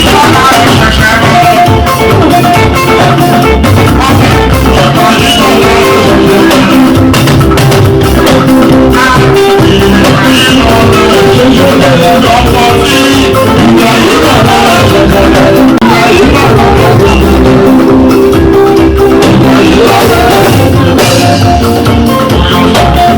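Loud live band music: electric guitar and drum kit over a steady beat, with a singing voice.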